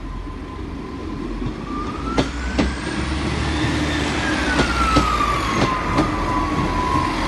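A siren wailing slowly, one long rise and fall in pitch, over a low rumble of vehicles, with scattered sharp clicks.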